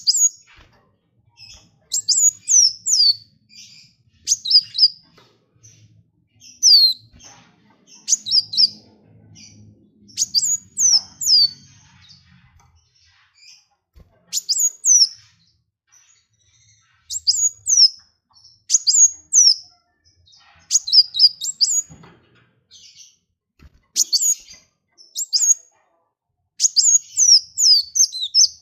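A small songbird singing in short, loud phrases of high, quickly falling chirps, repeated every second or two with brief pauses between them.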